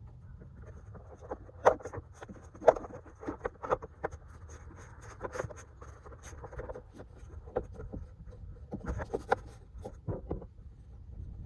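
Irregular clicks, knocks and scrapes of hand work on engine-bay hoses and hose clamps, over a steady low rumble. The two sharpest knocks come about two and three seconds in.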